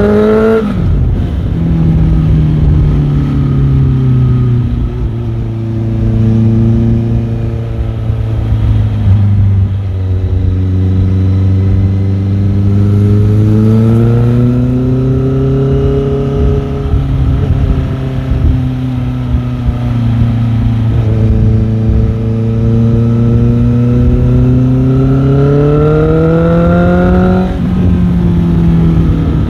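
Motorcycle engine running under way, its pitch rising and falling with the throttle. It drops sharply about half a second in, climbs slowly a few times through the middle, and drops again near the end, like gear changes.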